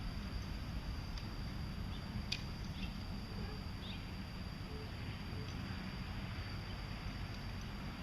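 Outdoor ambience: a steady low rumble and hiss with a thin, steady high-pitched tone, and a few faint short bird chirps about two to four seconds in.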